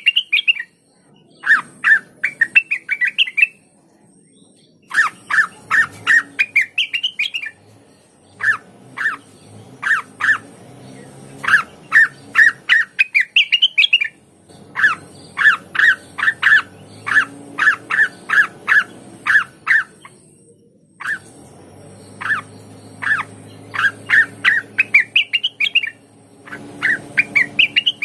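Cucak wilis (blue-winged leafbird) singing in loud runs of quick, sharp chirps, each run climbing in pitch, with short pauses between runs.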